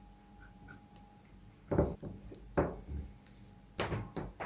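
A handful of sharp knocks and clatters of hard objects being handled, four or five in the second half, with a few faint ticks before them.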